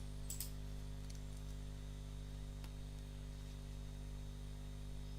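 Steady low electrical hum with several evenly spaced steady tones, typical of mains hum picked up by the recording microphone. A few faint short clicks sound over it.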